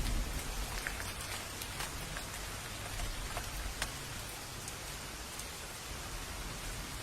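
Steady rain falling, with scattered individual drops ticking on a nearby surface over an even hiss and a low rumble.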